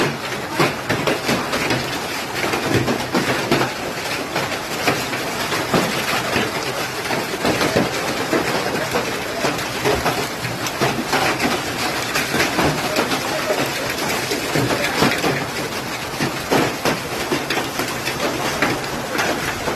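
Heavy hailstorm: a dense, continuous clatter of countless hailstones striking hard surfaces over a steady rushing noise.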